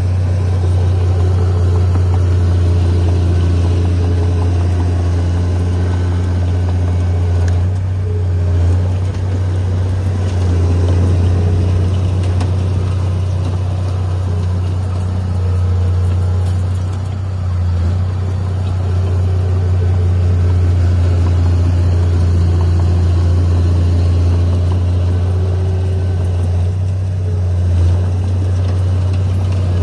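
Heavy diesel engine of earthmoving equipment running steadily, with a strong low hum and only small dips in level.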